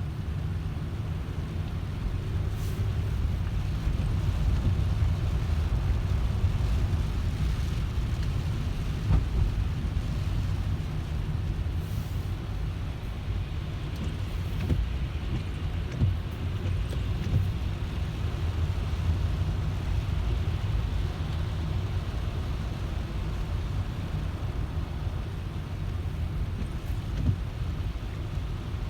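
A car driving along, with a steady low rumble of engine and road noise and a few brief clicks or knocks.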